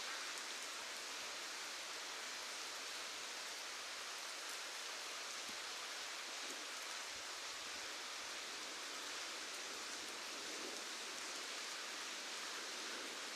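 Steady rain falling: an even, unbroken hiss, bright and thin with almost no low rumble.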